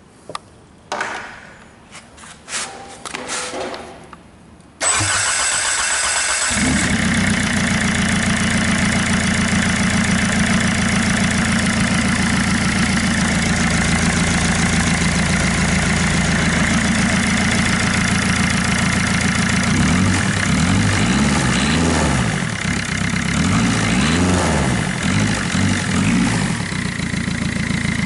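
Hyundai/Kia D4FB 1.6 CRDi four-cylinder common-rail diesel, run out of the car, cranked on the starter about five seconds in and catching at once, then idling steadily. Several clicks and knocks come before the start, and about twenty seconds in the engine is revved up and down a few times.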